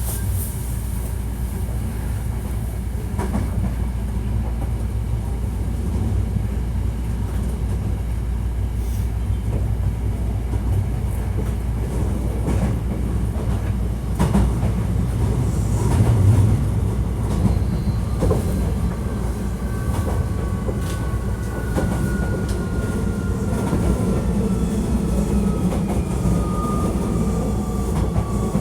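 Hankyu 1300 series electric train running, heard from inside the car: a steady low rumble of wheels and running gear with scattered clicks of wheels over rail joints. In the second half a thin whine slowly falls in pitch.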